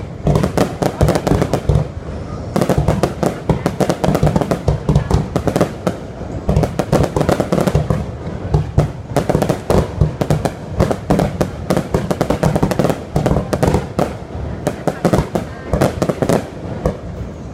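Fireworks display: shell bursts and crackle coming several a second with hardly a break, easing briefly about two seconds in.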